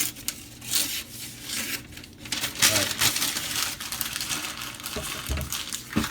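Serrated edge of a Benchmade 970S knife sawing through material in a run of rough tearing strokes, loudest a few seconds in, with a dull thud near the end.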